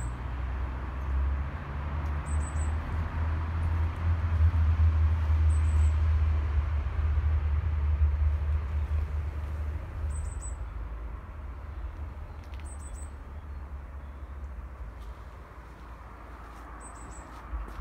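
A small bird repeating a short, high chirp every two to three seconds, over a low rumble of wind on the microphone that is strongest in the first half and eases off later.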